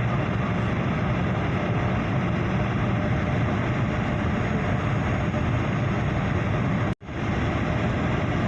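Steady jet engine and airflow roar inside the cabin of a Ryanair Boeing 737 in flight. It cuts out abruptly for an instant about seven seconds in, then fades quickly back in.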